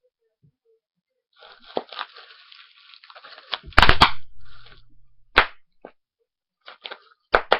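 Bubble wrap being crushed and twisted: crinkling plastic with sharp pops of bubbles bursting, a quick cluster of loud pops about halfway through and single pops later.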